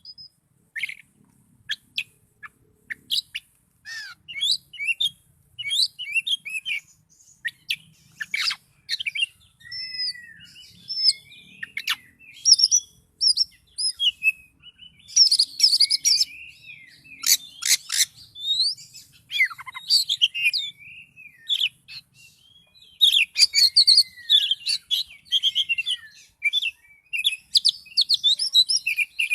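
Oriental magpie-robin (kacer) in full song: a fast run of varied whistles, chirps and gliding notes in short phrases with brief pauses between them, busiest about halfway through and again near the end.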